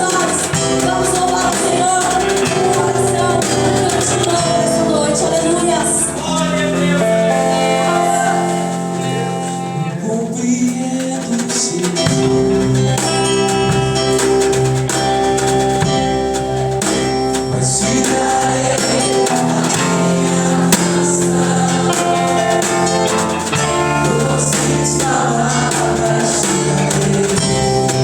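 Live gospel worship music: singing over instruments with a steady percussion beat.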